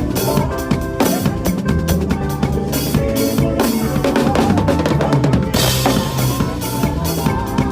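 Drum kit played in a fast makossa groove, with bass drum, snare and rimshots, over a pitched backing track of a makossa praise medley. A bright cymbal wash comes in about five and a half seconds in.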